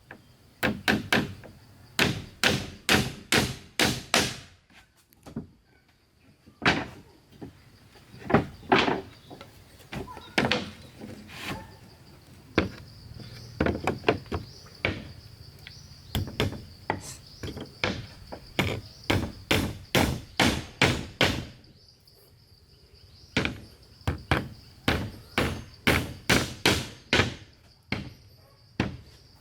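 Repeated blows of a hand tool on wood, in runs of several strikes about two to three a second, with short pauses between runs. Under them runs a steady high-pitched insect buzz.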